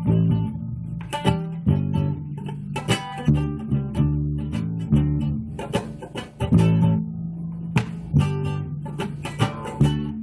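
Guitar and electric bass playing a rock tune without vocals, the guitar striking chords in sharp, irregular accents over held low bass notes.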